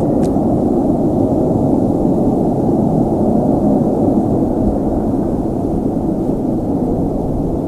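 Loud, steady low rumble with no clear pitch or rhythm, holding at an even level throughout.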